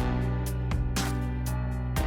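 Background music: plucked and strummed guitar with sustained low notes and a steady beat.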